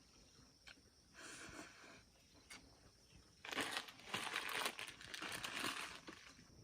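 Crinkling and rustling as something is handled: a short burst about a second in, then a longer, louder burst from about halfway that lasts some two and a half seconds.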